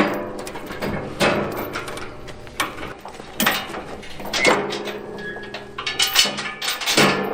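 Irregular metallic clanks and rattles of tie-down chains and load binders being tightened, about half a dozen sharp knocks spread unevenly, over a faint steady low hum.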